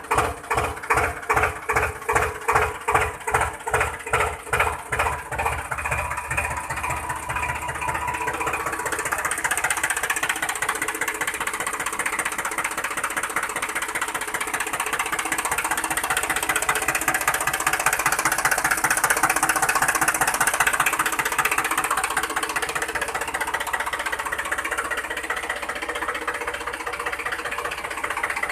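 Small motor of a miniature model tractor running, with an even chugging of about three beats a second for the first several seconds, then settling into a faster, steadier whir that rises and falls slowly.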